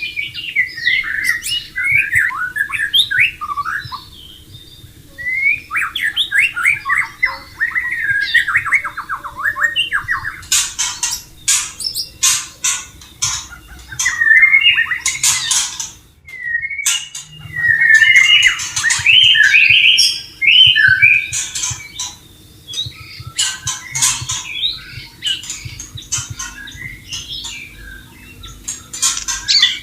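White-rumped shama singing a long, varied song of quick whistled and chattering phrases, with a run of sharp clicking notes in the middle and a brief break about sixteen seconds in. A faint steady hum lies under it.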